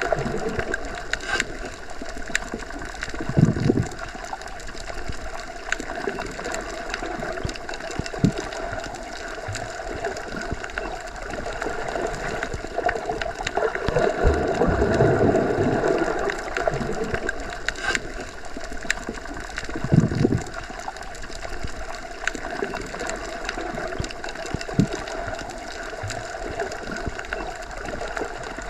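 Underwater ambience of a pool or lake as heard while submerged: a steady wash of water noise with a few low surges that swell and fade, and scattered small clicks.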